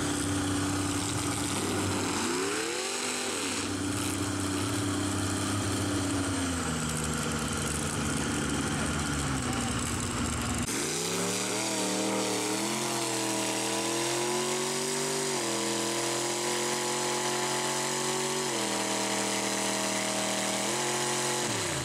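A mud truck's engine revving hard. The pitch sweeps up and back down several times and holds at high revs for seconds at a time, jumping to new levels in steps.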